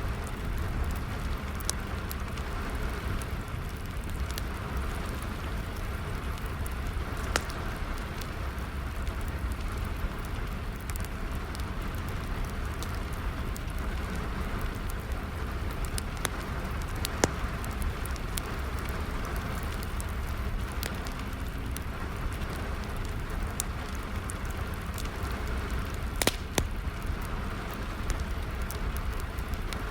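Steady rain with a wood fire crackling, sharp pops standing out every few seconds.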